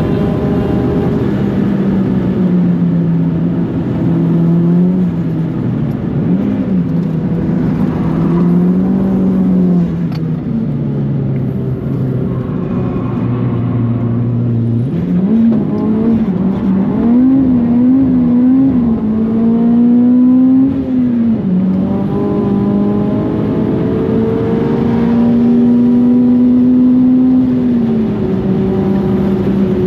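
Mitsubishi Colt R's turbocharged four-cylinder engine running at moderate revs that rise, fall and waver, with a few steady holds, while the car drives on with an overheated clutch that is described as dead.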